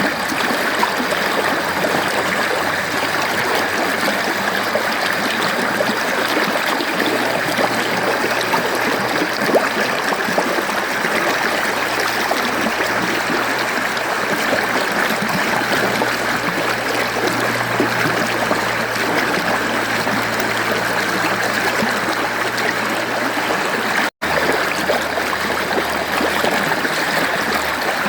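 Mountain stream running steadily over rocks, a continuous rushing and babbling of water. About 24 seconds in, the sound drops out for a split second.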